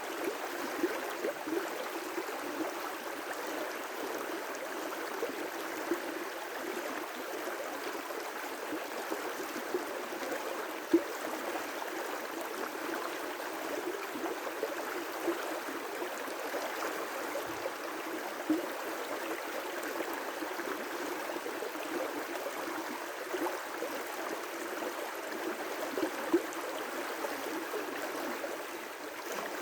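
River rapids: water rushing and splashing over rocks in a steady wash, with small gurgles and the odd louder splash, a few of them around 11 and 18 seconds in.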